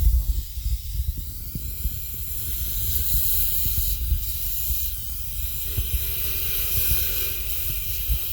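Dental suction hissing steadily as the acid etch is drawn off the tooth after its 30 seconds, growing stronger about two seconds in, with low thuds underneath.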